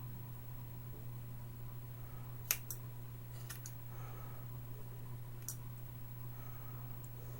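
Scissors snipping through hair: a few sharp clicks, a pair about two and a half seconds in, another pair a second later and one more near five and a half seconds, over a steady low hum.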